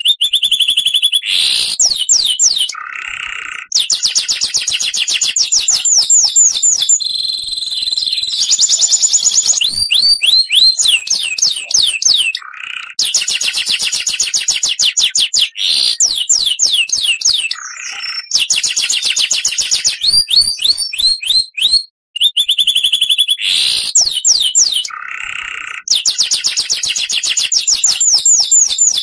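Oriental magpie-robin (kacer) singing loudly: fast runs of repeated high, sweeping whistles, broken at intervals by short lower, harsher notes. The song stops for an instant about 22 seconds in.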